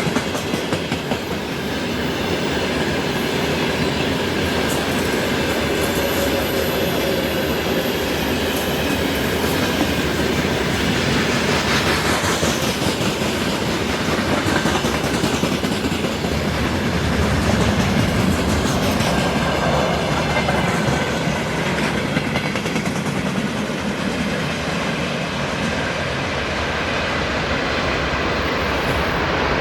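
Railway cars of a train rolling past close by at steady speed, wheels clattering rhythmically over the rail joints, with a faint high squeal of wheels on rail.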